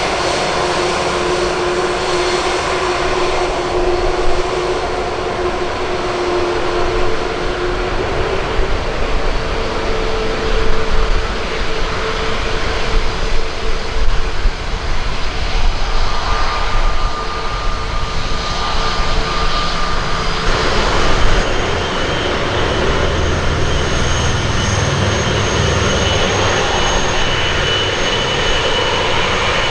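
Jet airliner engines, loud and continuous, with steady whining tones over a broad roar; the tones change about a third of the way in and again about two thirds in, as the aircraft passes.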